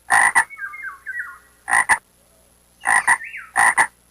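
A frog croaking in short double croaks, four times over.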